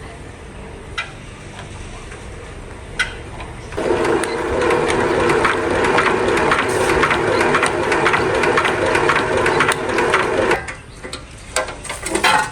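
A small machine runs steadily with a fast mechanical chatter for about seven seconds, then stops abruptly. A few light clicks come before it and several knocks after.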